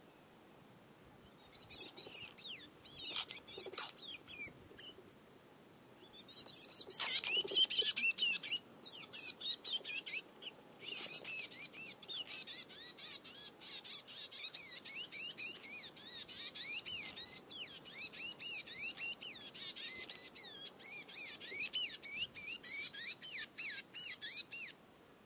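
Small bird singing in quick, high chirping and twittering phrases, with a short pause about five seconds in.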